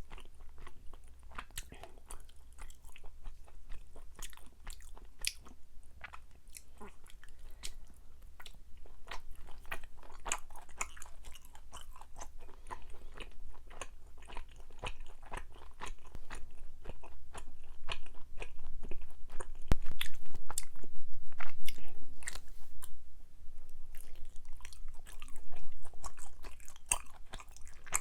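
Close-miked chewing of soft, chewy Korean rice cakes (tteok), a dense run of wet mouth clicks and smacks, louder from about two-thirds of the way through.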